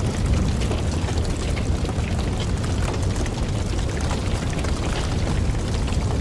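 Wood fire burning: a steady low rush of flames with many small, quick crackles and pops from the burning logs.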